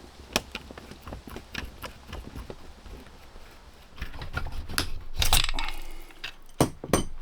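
Hand work on hardware: a run of irregular clicks and knocks, a louder scraping rush about five seconds in, and two sharp knocks near the end.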